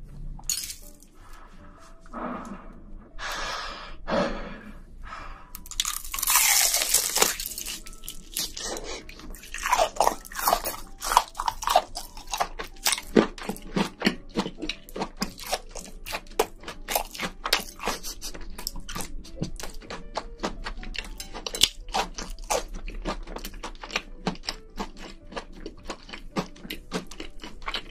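Close-miked biting and chewing of a giant deep-fried breadcrumbed shrimp. After a few softer swells, a dense, steady run of crisp crunches sets in about a third of the way in and lasts to the end.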